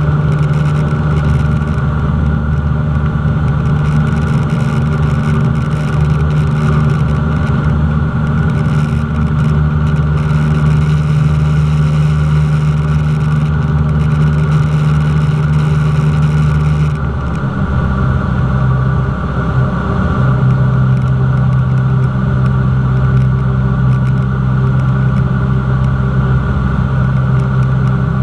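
Cessna 172's piston engine and propeller running steadily; about 17 seconds in the pitch drops to a lower, steady note as the engine speed comes down.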